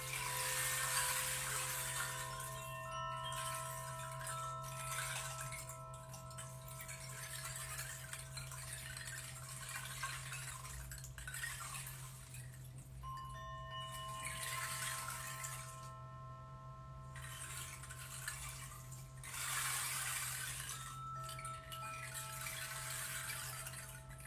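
Struck metal tones ring out and slowly fade, a few notes at a time about every ten seconds, over the steady rush of a running stream.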